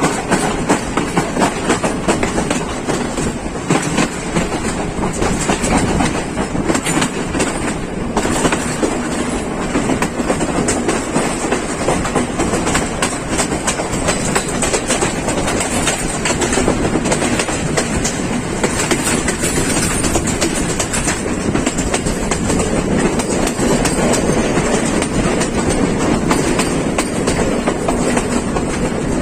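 Night Mail Express passenger train running on the line, its wheels clattering over the rail joints through a steady, loud rumble.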